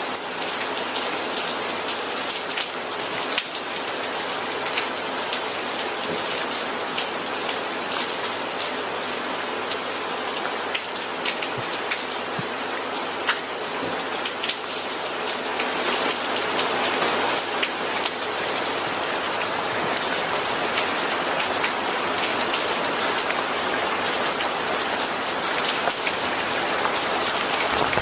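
Steady rain falling on a surface, a dense hiss with many individual drops ticking, growing a little heavier about halfway through.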